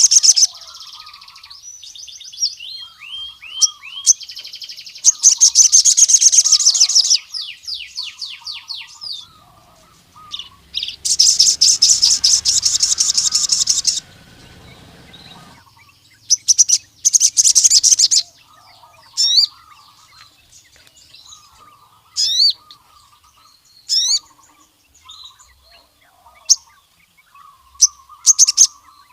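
Male sogon sunbird singing loudly in bursts of rapid, high, buzzy trills, several seconds apart, with short sharp rising chirps in between. Fainter, lower chirps run underneath.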